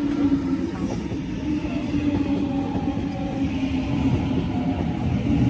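Train running past on the rails, a steady low hum over dense rumble.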